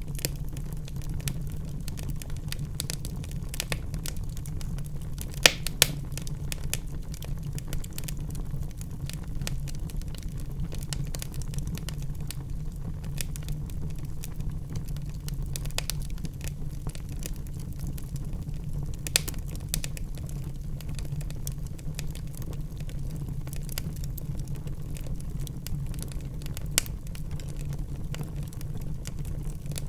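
Wood fire in a fireplace crackling, with irregular sharp pops over a steady low rumble. The loudest pops come about five and a half seconds in and again near nineteen seconds.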